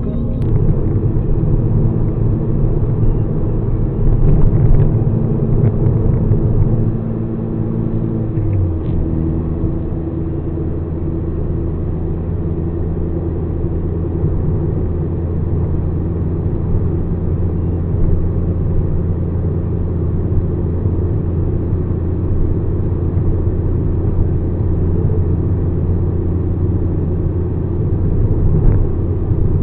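Mazda RX-7 FD3S's twin-turbo 13B rotary engine running on the road. Its note drops in pitch about eight seconds in, then holds a steady cruising drone.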